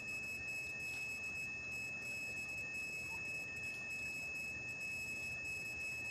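Steady, high-pitched insect chorus of evening crickets or katydids: several continuous tones held without a break, over a faint low background hiss.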